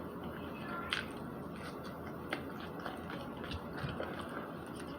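Mouth-close chewing of a spicy chicken McNugget: soft, wet chewing with a few small clicks, the sharpest about a second in.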